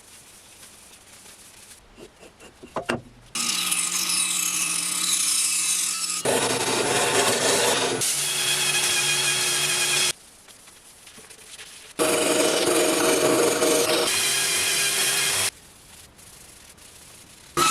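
Wood being worked on a spinning lathe: a tool or abrasive rubbing on the turning wood over a steady hum. It comes in separate edited clips with quieter gaps between them, and a few ticks about two to three seconds in.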